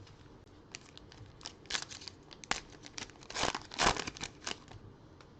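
Trading card pack wrapper being crinkled and torn open, a run of crackly rustles starting about a second in, loudest just past the middle and stopping shortly before the end.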